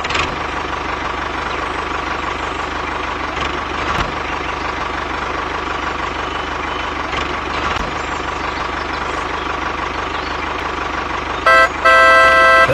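A vehicle engine running steadily with a fast even pulse, like a tractor engine. Near the end a horn toots twice, a short toot and then a longer one.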